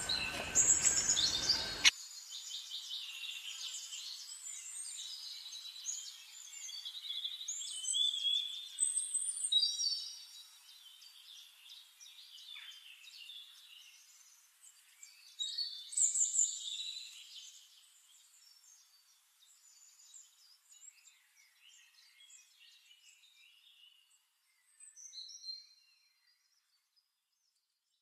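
Birds chirping and calling in many short, high-pitched bursts. The calls are loudest in the first two seconds and again about eight to ten and sixteen seconds in, then grow sparser and fainter toward the end.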